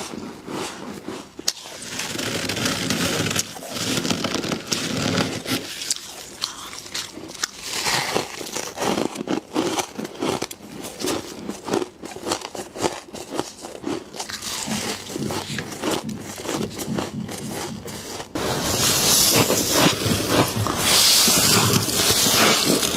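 Frost being bitten and chewed close to the microphone: many crisp crunches and crackles with some scraping. About 18 seconds in it cuts abruptly to a louder, harsher stretch of rough, hissing crunching.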